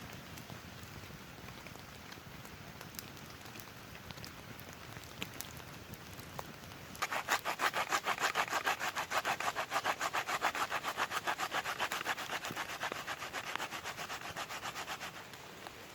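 Hand saw cutting through wood in quick, even back-and-forth strokes, starting about seven seconds in and stopping shortly before the end. Rain patters steadily throughout.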